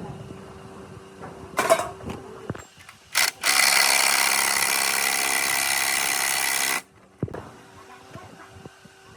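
A handheld power tool in a workshop is triggered with a short blip, then runs steadily for about three seconds and cuts off. A brief clatter of metal parts comes before it.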